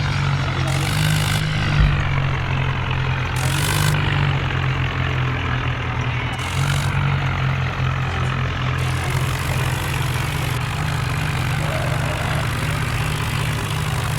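Tractor diesel engine running steadily with a deep, low rumble. A few brief hissy bursts sound over it, and there is a short low thump about two seconds in.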